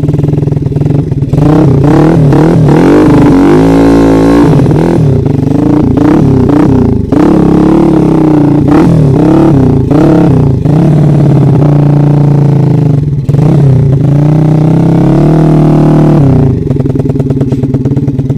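Trail motorcycle engine revved hard again and again, its pitch swinging up and down as it is worked up a climb. Near the end it settles to a steadier note.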